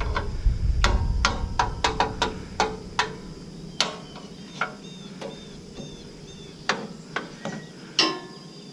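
A series of irregular sharp taps and knocks of a tool striking the tractor's metal parts, about fifteen in all, coming quickly in the first three seconds and then more spaced out.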